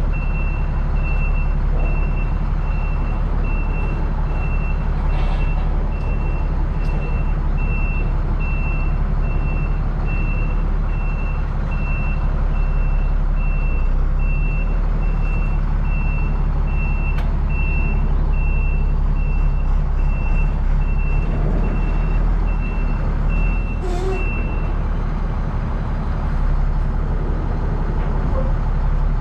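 A heavy machine's engine running steadily, with its backup alarm beeping about twice a second; the beeping stops near the end.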